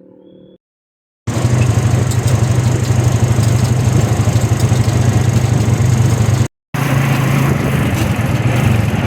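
A motor vehicle's engine running steadily and loud, with a strong low hum. It starts about a second in, cuts out briefly about six and a half seconds in, then resumes.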